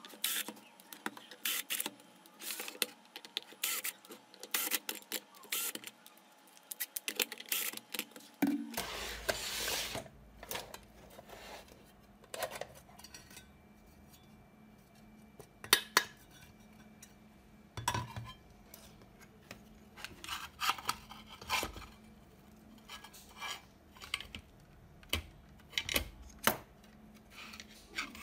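Scattered light metallic clicks and clinks of small metal parts and hand tools being handled. About nine seconds in there is a brief hiss, and after it a steady low hum runs underneath.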